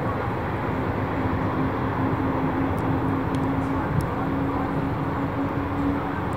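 Jet engines of a Boeing 737-800 running steadily: a constant rumble with a droning tone that slowly rises in pitch.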